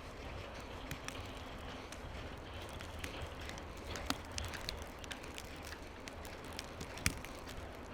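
A steady low wind rumble and an even hiss, broken by scattered light clicks and crunches. The sharpest click comes about seven seconds in.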